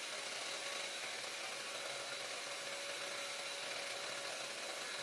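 Faint steady hiss with a faint thin hum running through it, unchanging throughout; no hair dryer is heard blowing.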